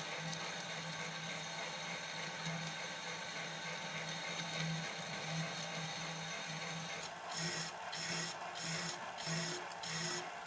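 Homemade lathe running with a steady motor hum. About two-thirds of the way in, the sound starts pulsing evenly, roughly one and a half times a second.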